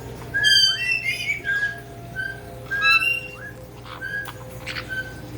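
Caique parrots calling: a string of short whistled notes at much the same pitch, mixed with a few harsher squawks.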